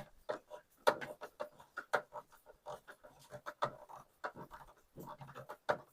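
Irregular short clicks and light scraping of hand tools against the plastic parts of a washing machine's clutch and pulley assembly during reassembly.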